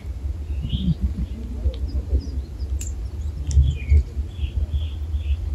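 Small birds chirping in short calls, with a run of repeated notes about two a second in the second half, over a steady low rumble of wind buffeting the microphone.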